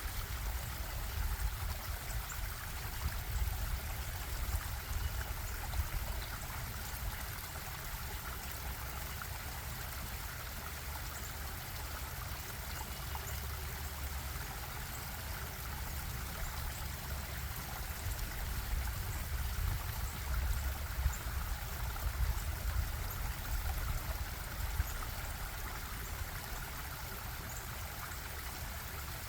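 Stream water bubbling and running steadily over rocks, with a continuous low rumble underneath.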